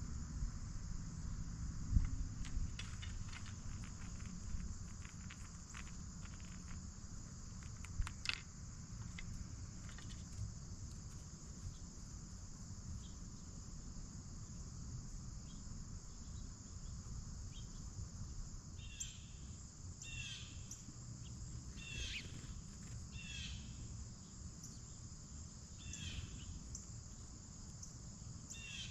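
Steady high insect chorus of crickets, with a few light clicks in the first several seconds. From about two-thirds of the way in, a bird gives a series of short falling chirps, roughly one a second.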